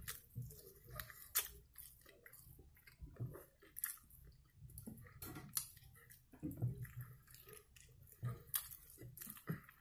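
A person eating: faint, irregular wet chewing and biting of smoked mackerel and boiled potato, with scattered soft mouth clicks.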